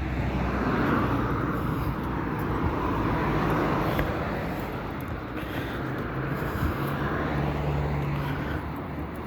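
Road traffic on a town street: cars passing, their engine and tyre noise swelling and fading a few times over a low steady hum.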